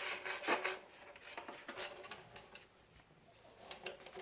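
Cockatoo's beak clicking and tapping at a wooden perch: an irregular run of small sharp clicks, busiest in the first second.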